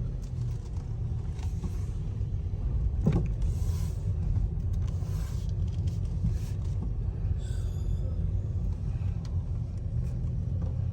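Steady low rumble of a car on the move, heard from inside the cabin, with a faint knock about three seconds in.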